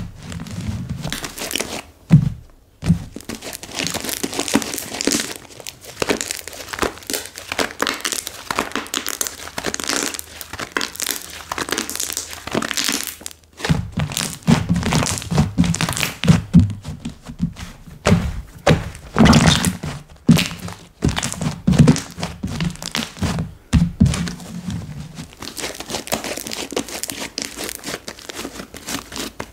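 Slime being pressed, poked and stretched by hand, giving a dense run of crackling clicks and pops with occasional soft thuds.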